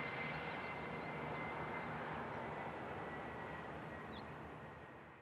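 Aircraft engine noise at an airfield, a steady rush with a faint high whine, slowly fading away near the end.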